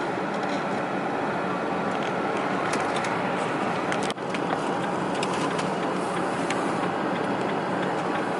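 Steady road and engine noise inside a moving car's cabin, with a few faint clicks and a brief dip in level about four seconds in.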